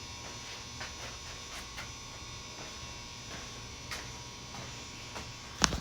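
Steady electrical hum with a few faint ticks, then a sharp click just before the end.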